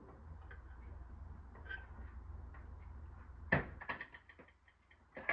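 Serving utensils knocking and clinking against a dish while food is plated: a few sharp knocks about three and a half seconds in and another near the end, over a faint low hum.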